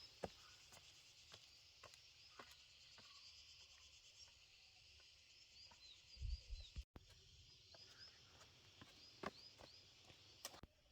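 Faint forest ambience: a steady high insect buzz with short, repeated bird chirps and a few scattered light clicks and knocks.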